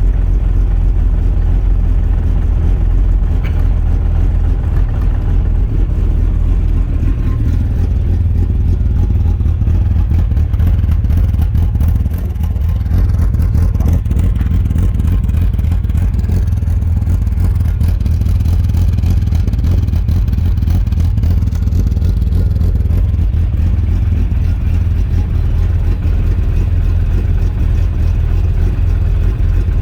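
Mini's engine idling steadily shortly after a cold start, still warming up, with a strong low exhaust note.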